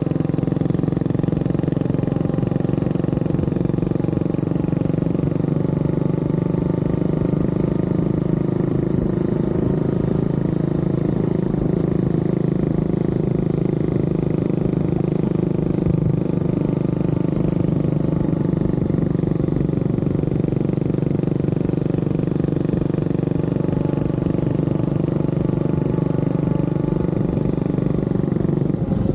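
Honda CB400SS motorcycle's single-cylinder engine running steadily at an even, nearly unchanging pitch.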